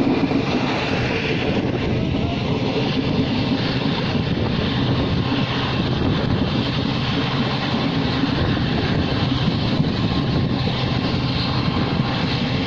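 Passenger train running along the track, heard from on board an ICF coach: a steady rumble of wheels on rail with air rushing past.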